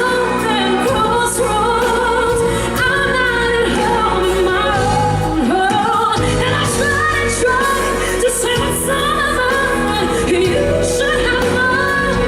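A female vocalist singing a power ballad live over band accompaniment, holding long notes and sliding through runs.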